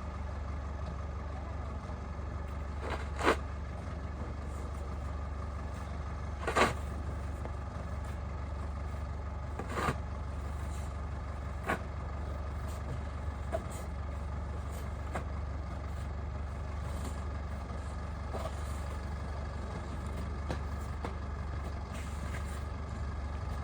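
Steady low hum of an idling vehicle engine, with a few sharp knocks about every three seconds, mostly in the first half.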